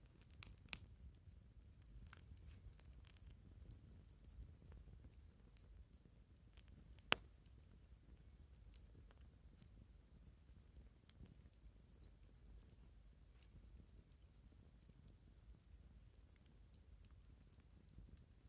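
Crickets chirping in a steady high trill, with the scattered crackle and pop of a wood campfire; one sharp pop stands out about seven seconds in.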